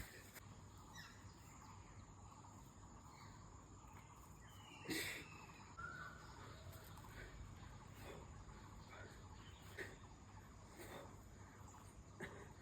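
Faint outdoor ambience: a steady thin insect hum, with scattered soft ticks and a short chirp about five seconds in.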